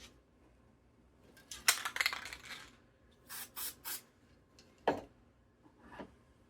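Short sprays of craft gold paint from an aerosol can: a hiss of about a second, then three quick short hisses, followed by a sharp click.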